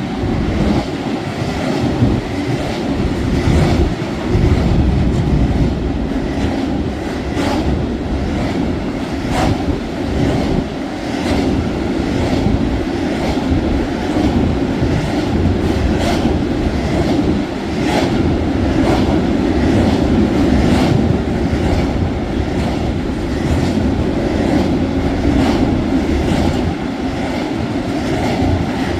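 Freight train of open coal wagons behind a Newag Dragon electric locomotive rolling past, a steady heavy rumble with repeated clacks as the wheels cross rail joints.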